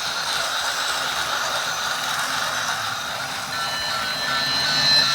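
Battery-operated toy train's small motor and plastic gears whirring steadily as it runs along the floor. About three and a half seconds in, a simple electronic tune starts playing alongside.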